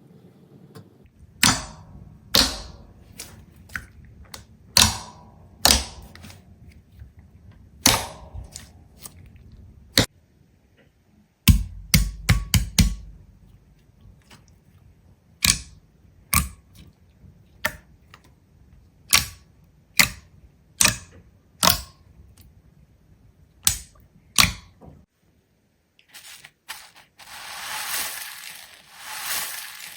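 A series of sharp clicks and snaps at irregular intervals, with a quick cluster of them about halfway through, then a hiss that swells and fades near the end.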